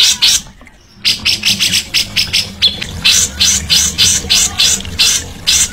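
A songbird repeating sharp, high chattering notes in quick succession, several a second, with a short break about half a second in.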